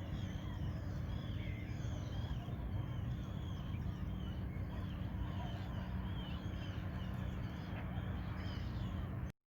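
Many small birds calling in quick, short chirps over a steady low rumble. The sound cuts off abruptly near the end.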